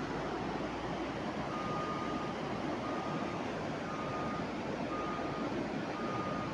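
A vehicle's reversing alarm beeping, short single-tone beeps about once a second, over a steady rushing noise.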